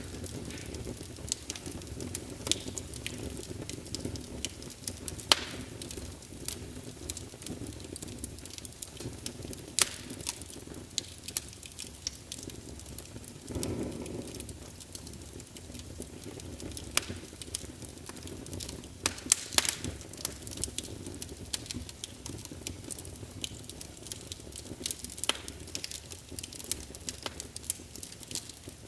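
Wood fire in a fireplace crackling, with irregular sharp pops and snaps over a steady low rustle of flame. A few pops stand out louder, and a brief soft swell comes about halfway through.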